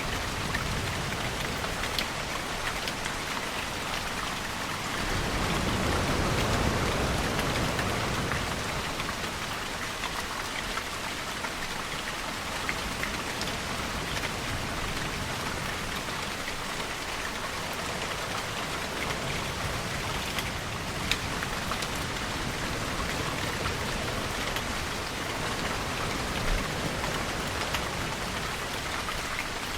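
Steady rain falling, with scattered sharp drops. About five seconds in, a low rumbling swell rises and fades away over some three seconds.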